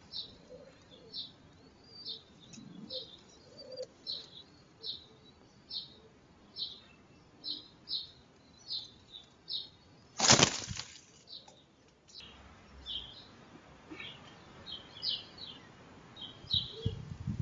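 A wood pigeon's wings flapping in a loud, short rush about ten seconds in. High-pitched bird chirps repeat about once or twice a second before it and come back more scattered after.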